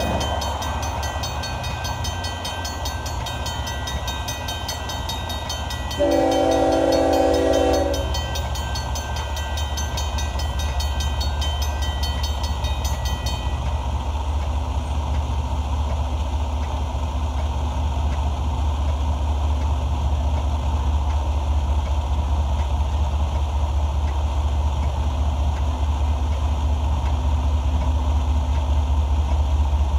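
Grade-crossing bell ringing steadily, stopping abruptly about halfway through. About six seconds in, the horn of approaching CSX locomotive #3060 sounds one two-second chord, and the locomotive's low diesel rumble grows steadily louder after it.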